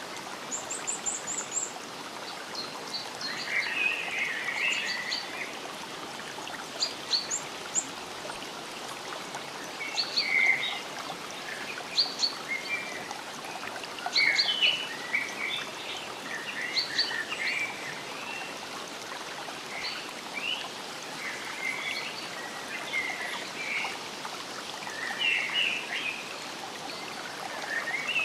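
Several songbirds chirping and calling in short phrases, a new call every second or so, over a steady background hiss.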